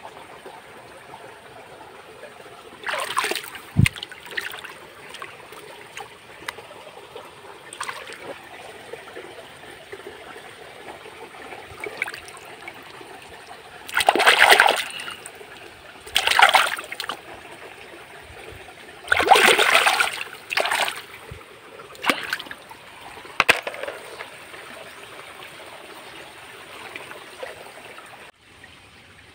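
Shallow stream trickling steadily, with a hand splashing and stirring in the water several times: once a few seconds in, then in a louder cluster past the middle.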